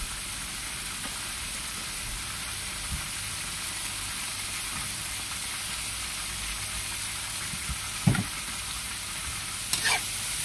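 Dried squid, green tomato and chilli sizzling steadily in a hot wok over a gas flame. Just before the end a metal spatula starts scraping and stirring against the wok.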